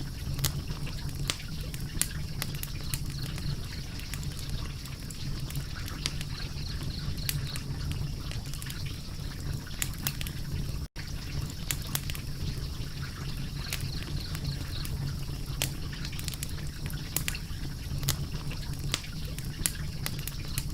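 Wood fire crackling: irregular pops and snaps over a steady low rumble of the flames, cutting out for an instant about halfway through.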